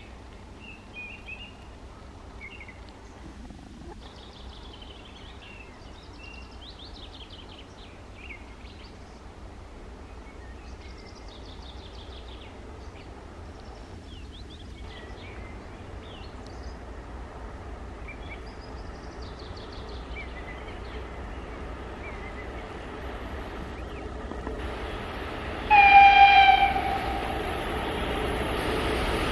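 Low rumble of an approaching train hauled by a VL10U electric locomotive, growing slowly louder, with birds chirping over it at first. Near the end the locomotive sounds its horn once, a loud blast of just over a second that sags slightly in pitch, and the train noise then swells as it draws near.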